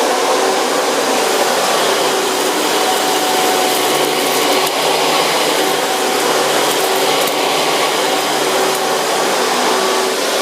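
Hoover bagless twin-chamber vacuum cleaner running steadily at full power, a loud motor whine over rushing air.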